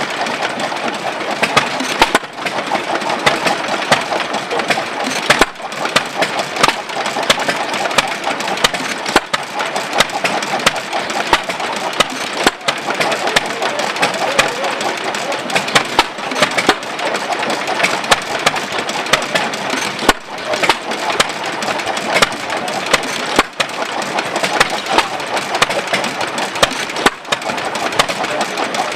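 Amanco 'Hired Man' 2 1/4 hp hit-and-miss gas engine running, with a steady run of sharp firing beats broken by brief dips about every three to four seconds.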